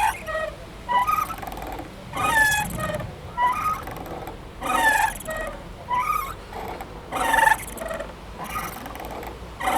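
Playground swing squeaking rhythmically as it swings back and forth, a short gliding squeak of its hangers about every second and a bit.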